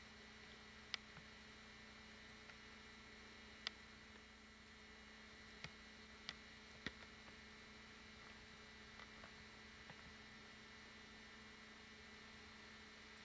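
Near silence: a steady low electrical hum, with five faint sharp clicks in the first seven seconds.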